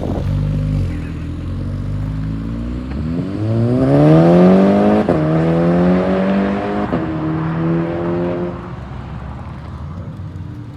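Audi RS3 with a straight-through exhaust accelerating hard: a low rumble, then about three seconds in the engine note climbs steeply in pitch, with two brief breaks about five and seven seconds in. It fades out after about eight seconds.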